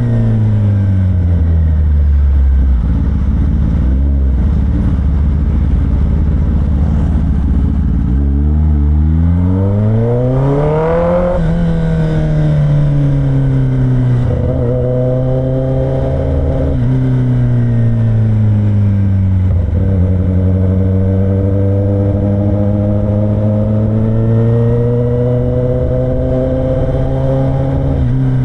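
Kawasaki ZX10R inline-four superbike running through a new aftermarket exhaust with the catalytic converter and stock muffler removed, ridden on the road. The engine note falls away at the start and holds low, revs up hard about eight seconds in, then drops with a gear change and settles into a steadier cruise broken by a few brief shifts.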